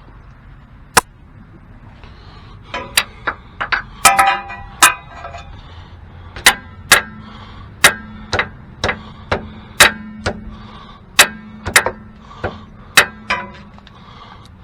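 Repeated sharp metal-on-metal taps, about twenty at an irregular pace of one or two a second, several ringing briefly: a tool working at the stuck rear ABS sensor of a Lincoln Town Car to free it.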